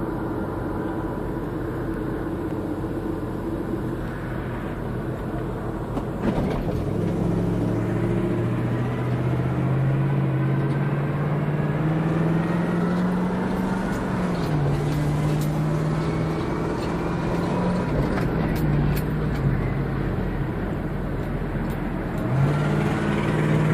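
GMC truck's 427 big-block V8 idling, then pulling away about six seconds in. The engine note climbs as it accelerates, drops back at each gear change three times, and climbs again near the end.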